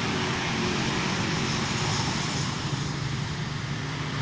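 Honda Brio engine idling steadily through an aftermarket exhaust muffler, a low even drone.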